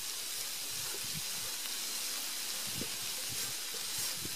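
Ground melon seed (egusi) mixture with sliced carrots sizzling steadily in a frying pan, with a few soft knocks of a spatula stirring it.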